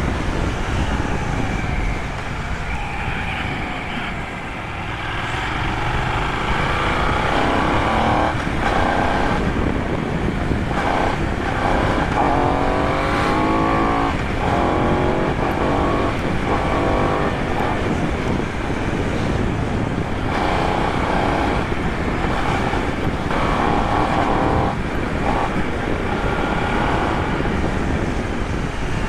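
Benelli 752 S parallel-twin engine on a ride. It drops in pitch and level in the first few seconds, then picks up, with a run of short rising revs through the middle.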